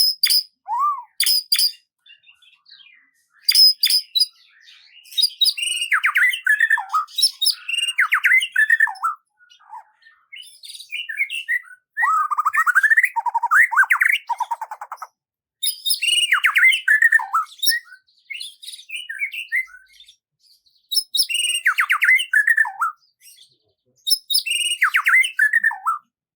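Songbirds singing: repeated phrases of chirps, sweeping whistled notes and fast trills, each a second or a few seconds long, separated by short pauses.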